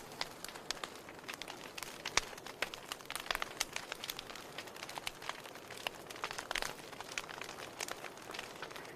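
Wood fire crackling in a fireplace: irregular snaps and pops over a soft hiss, with one sharper pop about two seconds in.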